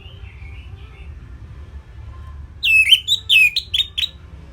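Orange-headed thrush singing a short, loud phrase of about four quick, sharply falling whistled notes, starting about two and a half seconds in, after a few faint chirps, over a steady low hum.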